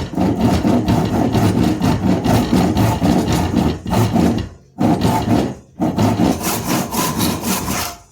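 Saw cutting a slot into a knife-handle block for the tang, in steady back-and-forth strokes. It pauses briefly about four and a half seconds in and again near six seconds, then stops at the end.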